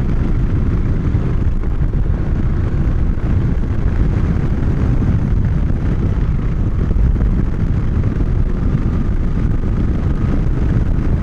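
Moto Guzzi motorcycle riding at steady road speed, its engine running under heavy wind rush and buffeting on the helmet microphone.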